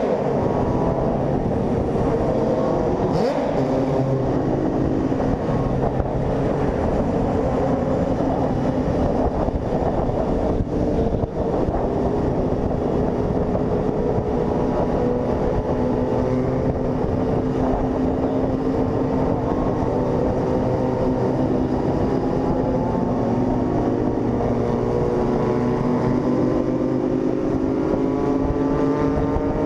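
Honda CG 160 Fan's single-cylinder engine running steadily at road speed, its pitch climbing slowly over the last few seconds as it accelerates.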